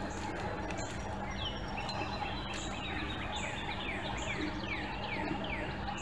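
A songbird singing a quick run of short whistled notes, each sliding downward, about three a second, starting about a second and a half in, over a steady low hum and outdoor background noise.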